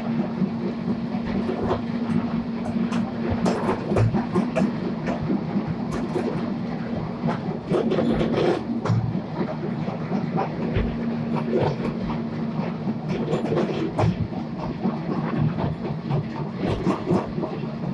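Narrow-gauge park railway train hauled by a Borsig steam locomotive, heard from aboard as it runs along the track: a steady running rumble and hum with frequent irregular clicks and knocks of the wheels over the rails.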